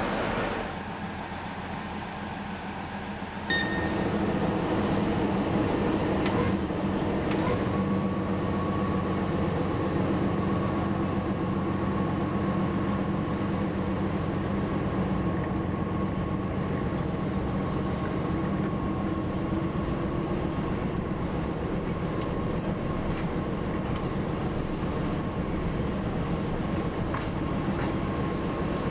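TU7 narrow-gauge diesel locomotive running, its engine suddenly louder about three and a half seconds in, with a steady whine joining a few seconds later and a couple of clicks along the way.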